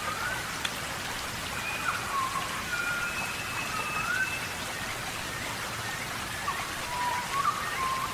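Steady rain falling, with short whistled calls, some rising in pitch, scattered through it.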